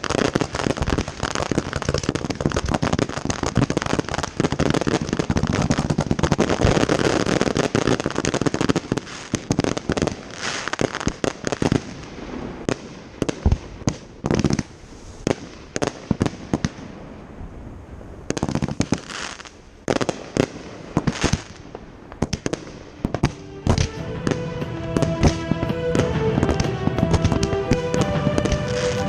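Fireworks going off in a dense barrage of bangs and crackling, thinning out about halfway through to separate sharp booms with short gaps between them. Music with sustained notes comes in near the end, under further bangs.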